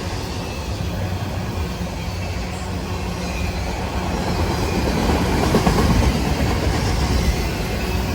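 CSX freight train's loaded autorack cars rolling past, a continuous rumble of steel wheels on rail that grows louder about five seconds in.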